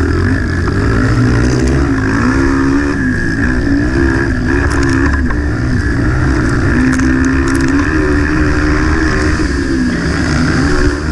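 Motocross bike engine being ridden hard, its pitch rising and falling repeatedly as the throttle opens and closes, over a heavy low rumble.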